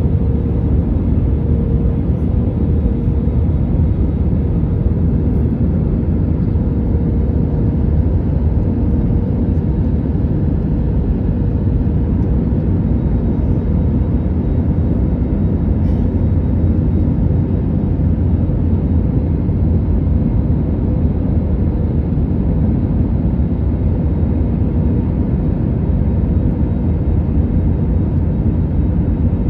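Steady cabin noise inside an Airbus A321neo: a constant low rumble of engines and airflow with a faint steady hum above it.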